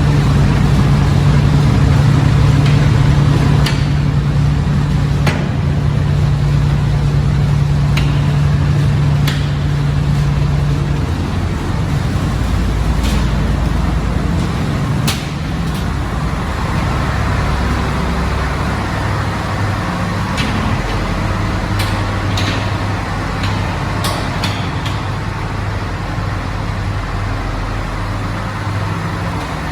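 Scania DSI 11 marine diesel running steadily, its note dropping lower about eleven seconds in, with scattered light clicks.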